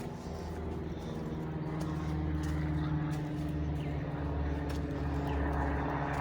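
Low, steady engine drone of a passing motor vehicle, slowly growing louder, with a few faint bird chirps above it.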